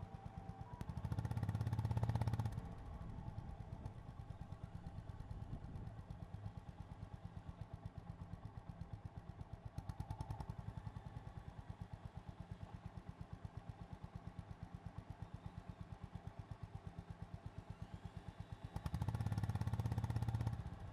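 Honda GB350's air-cooled single-cylinder engine with a slow, even exhaust beat. It gets louder under throttle twice, about a second in and again near the end.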